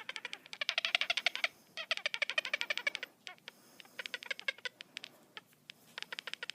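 Rapid clicking chatter from an animal in four or five bursts, about a dozen clicks a second, with short pauses between bursts.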